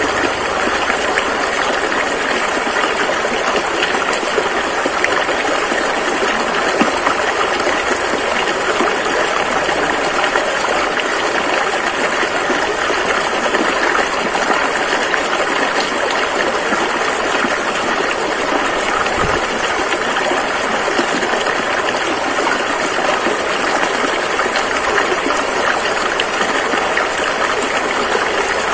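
A fast-flowing river: rushing water running in a steady, unbroken wash.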